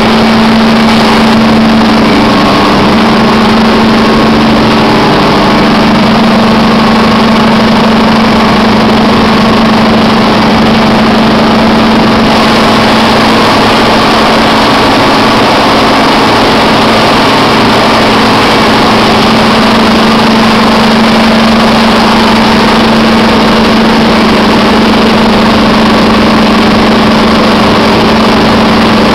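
Schmitt Enertec biogas engine running steadily at a constant speed, loud and even, with a steady hum.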